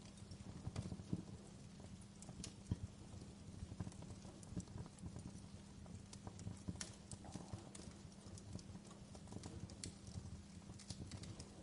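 Wood fire crackling in a fireplace: irregular small pops and snaps over a low steady rumble, with a few sharper pops about two and a half and seven seconds in.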